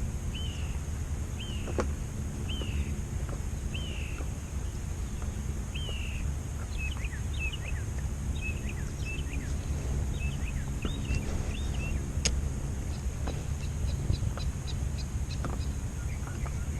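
A bird calling: a run of short down-slurred whistled notes about once a second, turning into quicker, scattered chattering notes about halfway through, over a steady low rumble.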